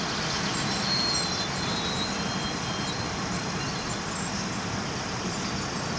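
Distant train passing, heard as a steady rumble and rush of noise.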